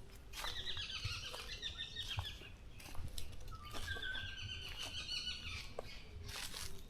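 A songbird singing two quick twittering phrases of rapidly repeated high notes, about two seconds each, over a low rumble, with scattered small clicks and a short rustle near the end.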